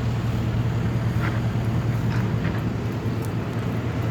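A large engine idling steadily, a low even drone, typical of a utility or tree-service work truck, with a few faint short chirps over it.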